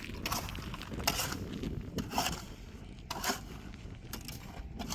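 A series of short scraping knocks, roughly one a second, over a steady low rumble.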